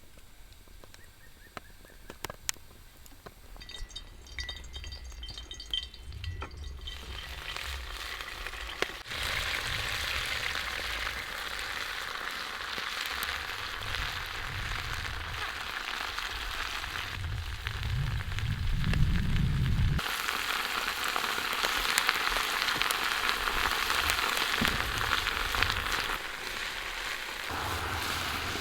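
Food sizzling over a campfire. Faint scattered crackles give way after several seconds to a steady, dense sizzle, which jumps abruptly in loudness a few times.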